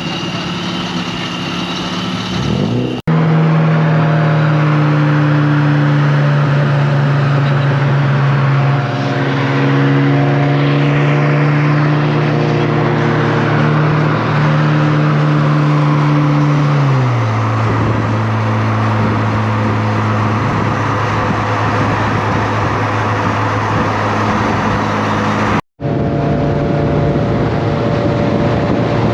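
Car engine running at a steady cruise under road and wind noise, its hum holding pitch with small shifts and then sliding lower about two-thirds of the way through as the car slows.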